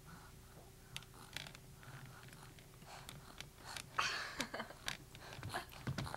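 Scattered small taps, clicks and rustles of a baby handling things, with short baby vocal sounds from about four seconds in.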